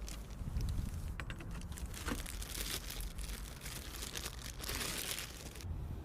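Packaging being unwrapped and handled: irregular crinkling and rustling with a few light clicks.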